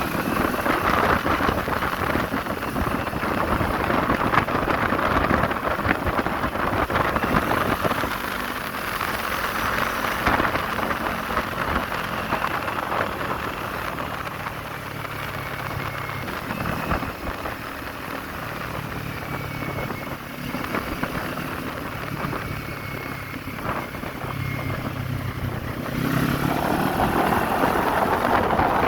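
Kawasaki Z400 parallel-twin motorcycle engine running on the move, under heavy wind noise on the microphone. The engine eases off in the middle and rises in pitch again with acceleration about 26 seconds in.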